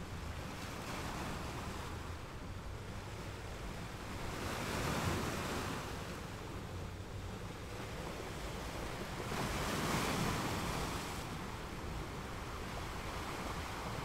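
Ocean surf breaking and washing up a sandy beach. The wash swells louder twice, about five and ten seconds in, over a low rumble of wind on the microphone.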